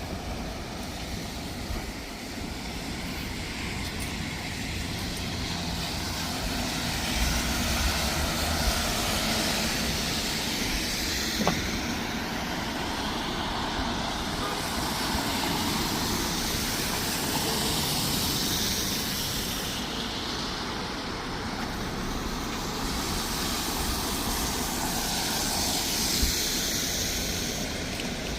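Street traffic on a wet road: vehicles passing with a steady tyre hiss that swells and fades as each goes by.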